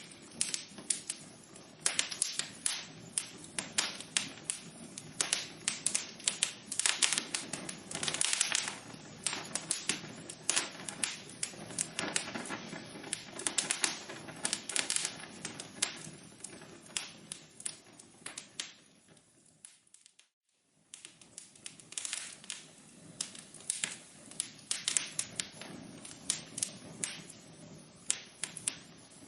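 Wood fire burning in a fireplace, crackling with rapid, irregular pops and snaps over a soft hiss. About two-thirds of the way through it fades almost to nothing for about a second, then the crackling returns.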